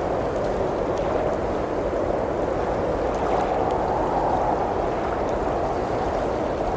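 Blizzard wind howling steadily, swelling a little about halfway through, with a few faint crackles from a wood fire.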